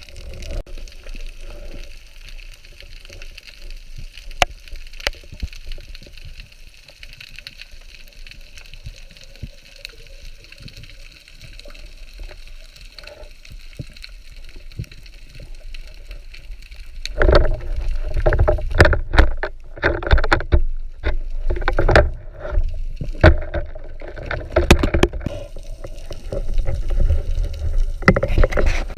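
Water sounds around a spearfishing diver: quiet underwater hiss with scattered sharp clicks, then from about seventeen seconds in, loud irregular sloshing and splashing of water against the camera.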